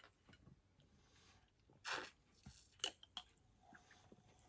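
Faint sounds of someone drinking from a marble-stoppered (Codd-neck) soda bottle: a short sip about two seconds in, then a couple of small clicks.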